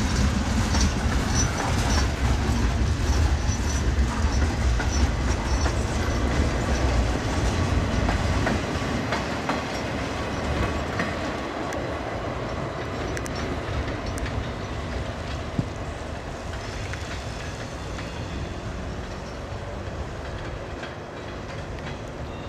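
Freight cars and a caboose rolling past, their wheels clicking rhythmically over the rail joints. The sound is loudest for the first several seconds, then fades as the caboose passes and the train moves away.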